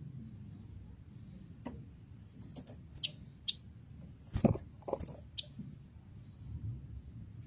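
A caged blue-masked leafbird (cucak kinoy) giving about seven short, sharp chips and clicks, scattered and loudest about halfway, over a faint low hum.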